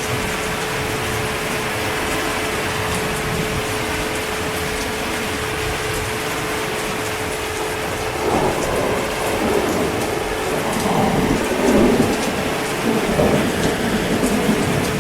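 Steady heavy rain, with thunder rolling and rumbling in from about halfway through and growing louder.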